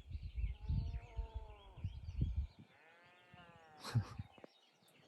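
Cattle calling twice, each a drawn-out bawl of about a second that rises and falls in pitch. Birds chirp faintly throughout, wind rumbles on the microphone in the first half, and there is a sharp knock near the end of the second call.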